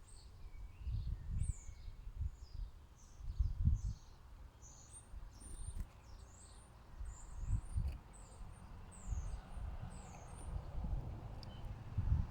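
Small garden birds chirping and twittering: many short, high calls in quick succession, over irregular low rumbling noise.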